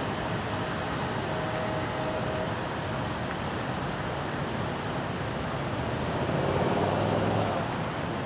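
Steady rushing noise of the flooded Chattahoochee River, with wind on the microphone. About six seconds in it swells louder with a low hum for a second or so.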